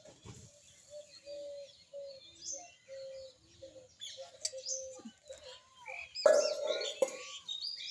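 Several birds calling: a run of short, even, low notes repeated about twice a second, with high chirps scattered over them, then a louder call about six seconds in.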